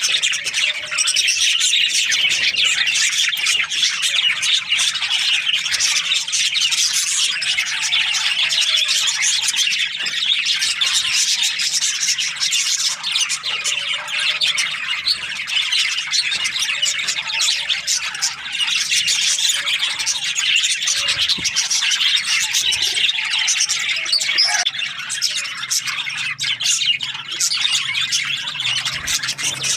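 A flock of budgerigars chattering nonstop, many birds chirping and squawking at once in a dense, steady din.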